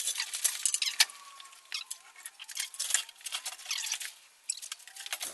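Irregular light metallic clinks and clicks with high squeaks of lifting chains and hoist, as the chained-up old engine and transmission are hoisted out of the Jeep.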